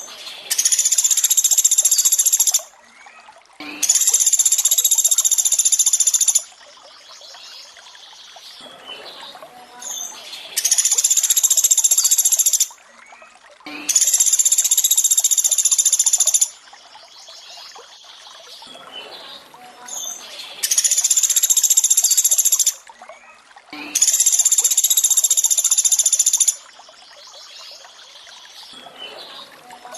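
Looped recording of a pelatuk beras bird's high-pitched call, each call about two seconds long. The calls come in pairs about a second apart, and a pair repeats about every ten seconds. A quieter trickle of water runs between them.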